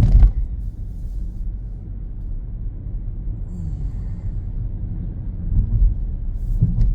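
Low, steady rumble of road and engine noise inside a moving car's cabin, swelling briefly near the start and again about two-thirds of the way through.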